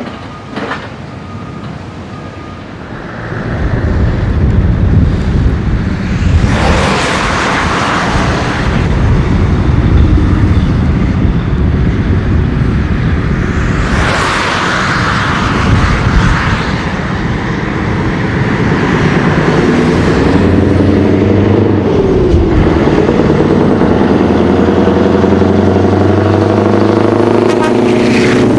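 Scania 143M V8 truck engine running loud through a big exhaust. It swells up about three seconds in and stays loud, with two louder surges around seven and fourteen seconds in. In the last part the engine's pitch steadies and shifts slightly.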